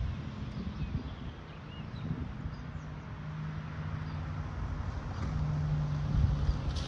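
Low engine drone with a steady hum that strengthens and grows louder toward the end, over a rumbling background, with a few faint bird chirps.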